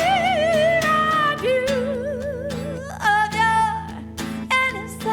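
A singer holding long, high notes with wide vibrato and no words, over a strummed acoustic guitar.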